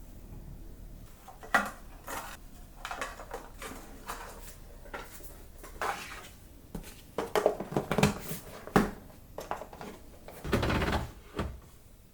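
Kitchen handling sounds: dishes, utensils and containers knocking and clinking at irregular intervals, busiest in the middle, with a longer, louder noise about ten and a half seconds in.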